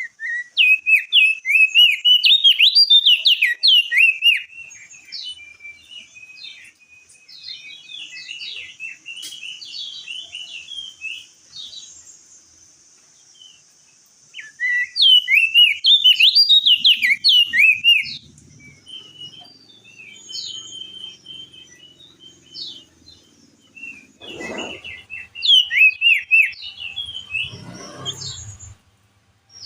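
Crested white-eye (opior jambul) singing in three loud bursts of fast, jumbled, high-pitched chattering, with quieter short calls between the bursts. A steady high hiss runs underneath, and a low rumble with a couple of dull thumps comes in the last third.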